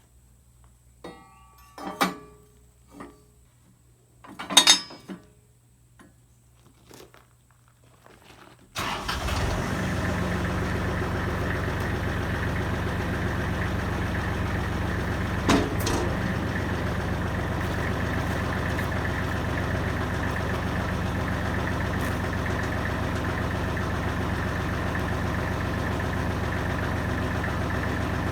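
A few scattered short knocks and clicks. Then, about a third of the way in, a Kubota L35 backhoe's diesel engine comes in abruptly and runs steadily at an even speed.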